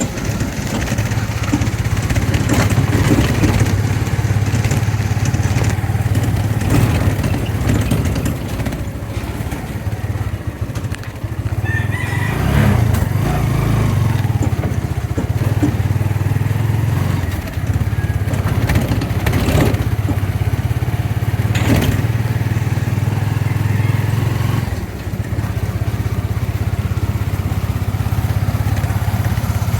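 Small motorcycle engine running steadily while being ridden, with a few brief sharp noises along the way.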